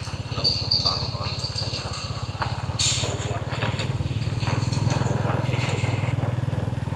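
Small engine running steadily with a rapid, even firing beat.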